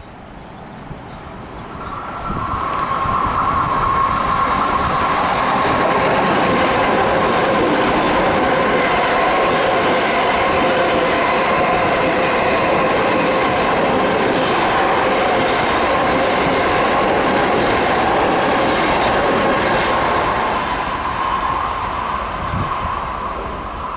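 Long Island Rail Road electric commuter train passing on the rails. It builds over the first few seconds, holds loud and steady with a whining tone, and fades near the end.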